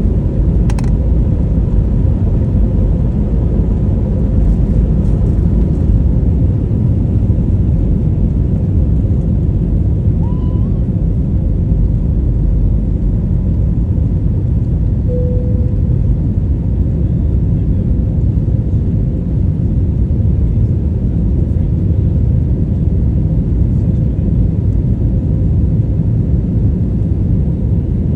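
Airbus A320neo-family jet taking off: a loud, steady low rumble from its turbofan engines at takeoff power.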